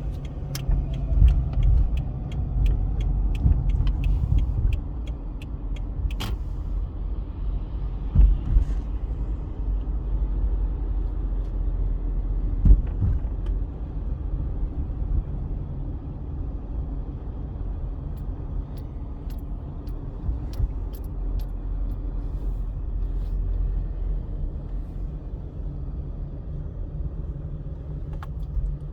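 Car engine running with a steady low rumble, and a regular ticking of about two ticks a second over the first five seconds or so.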